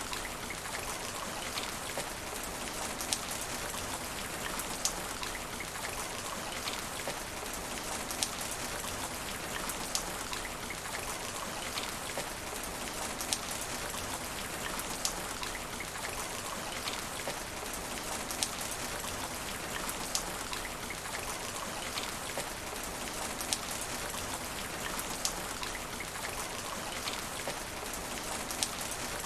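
Steady rain falling on asphalt, a dense even hiss with frequent sharper individual drop splats standing out.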